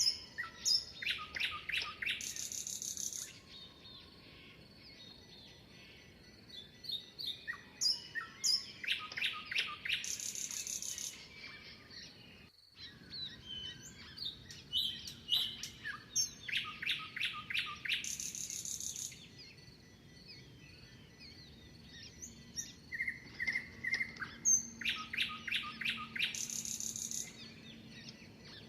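Songbirds singing. One bird repeats a song phrase about every eight seconds, four times in all: a quick run of rising and falling notes that ends in a high, buzzy trill. Softer chirps and calls from other birds fill the gaps.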